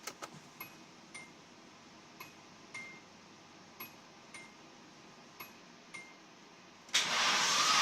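Faint sharp clicks in pairs with a short ring, repeating about every second and a half. About seven seconds in, a loud steady whirring with a slightly rising whine starts suddenly: the starter cranking a Nissan KA24E four-cylinder engine that won't start.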